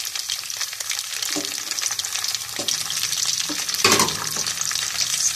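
Fennel seeds, cardamom, coconut slices and raisins sizzling and crackling in hot ghee in a steel pot, with one brief louder crackle about four seconds in.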